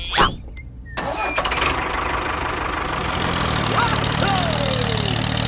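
An engine starts about a second in and then runs steadily, with a low hum that builds. Two short gliding tones are heard a little after the middle.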